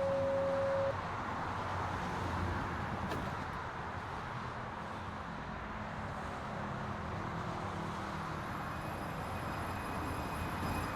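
Santiago Metro AS-02 train running between stations, with a steady rolling rumble. A loud steady tone cuts off about a second in, and near the end faint high steady tones and a rising whine come in.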